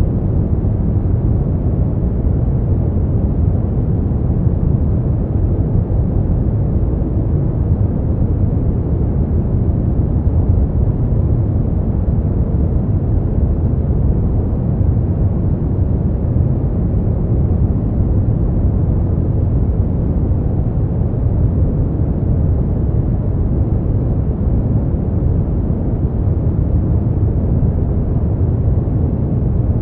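Continuous sleep-aid noise billed as white noise, though it is deep and muffled, weighted to the low end like brown noise. It runs steady and unchanging, with no events.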